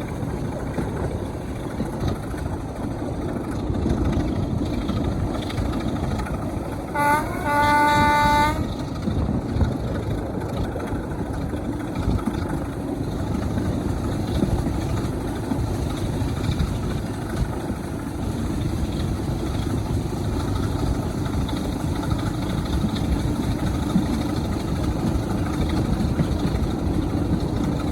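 Diesel locomotive running with a steady low rumble. About seven seconds in, its horn sounds: a brief note, then a longer blast of about a second.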